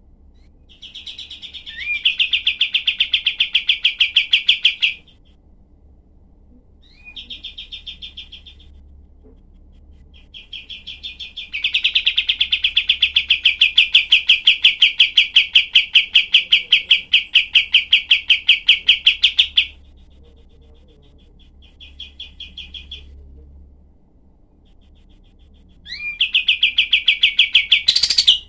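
Kapas tembak songbird singing rapid runs of sharp, harsh repeated notes in bouts, with one long unbroken run of about eight seconds in the middle and shorter runs around it.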